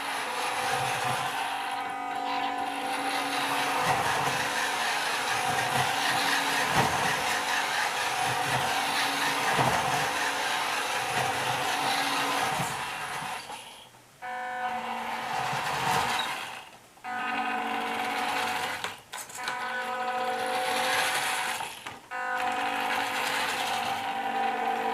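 Electric drive motor and gearbox of a WPL D12 RC mini truck, running with an abnormal noise. It runs steadily for about the first thirteen seconds, then in short spells of one to three seconds with brief stops between them.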